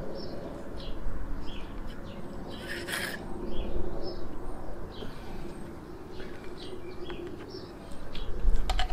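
Small birds chirping and calling intermittently, with a short rustle about three seconds in.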